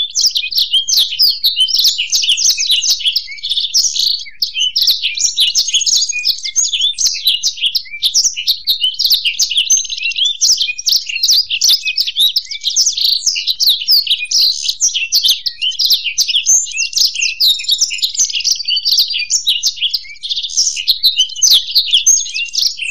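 Blackthroat (black-throated canary) and European goldfinch singing together: a continuous, rapid twittering song of quick high chirps and trills with no pauses.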